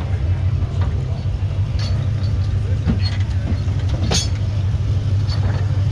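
Car engine idling with a steady low rumble and a few light clicks and knocks.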